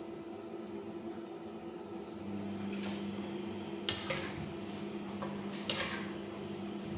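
A cooking utensil scraping and knocking against a pan in a few short strokes while vegetables are stirred in. A steady low hum runs underneath and grows stronger about two seconds in.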